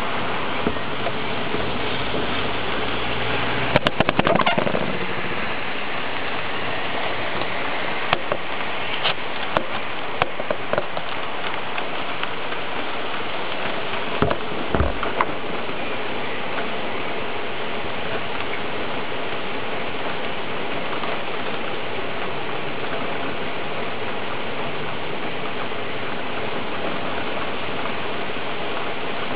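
Steady rain falling, an even hiss. A few sharp ticks and knocks come about four seconds in and again around eight to fifteen seconds in.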